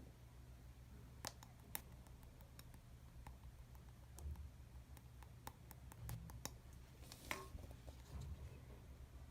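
Clear slime being pressed and stretched by hand, giving faint scattered clicks and small pops at irregular intervals over a low hum.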